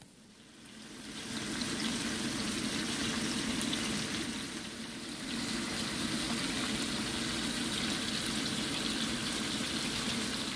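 Pen shell scallop slices and sliced garlic sizzling in butter and oil in a frying pan. It is a steady frying hiss that builds over the first second or two and eases off near the end.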